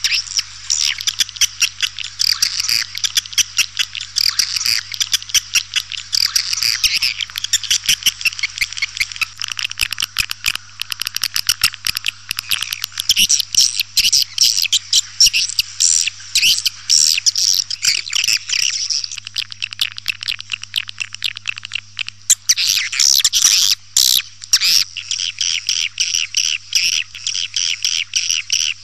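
Swiftlet calling sound (suara panggil walet): a dense, continuous chatter of many rapid high chirps and twitters of edible-nest swiftlets, the kind of recorded call played to lure swiftlets into a nesting house. A faint steady low hum runs underneath.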